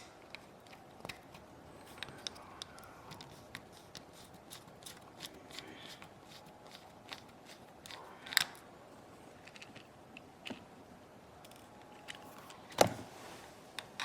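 Small repair tools clicking and tapping against the parts of a 6th-generation iPod nano being taken apart: scattered light ticks, with a louder clack about eight seconds in and another near the end.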